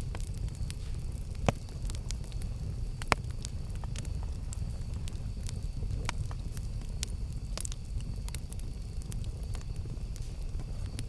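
Campfire burning with a steady low rush and scattered sharp crackles and pops, the two loudest about a second and a half and three seconds in.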